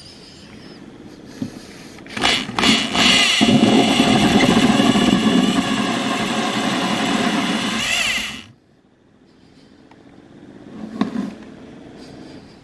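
A power tool's electric motor starts about two seconds in, runs steadily at a high whine for about six seconds, then cuts off suddenly. A short clatter follows near the end.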